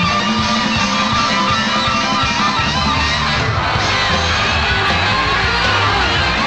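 Live rock music: electric lead guitar playing with bending notes over bass and drums.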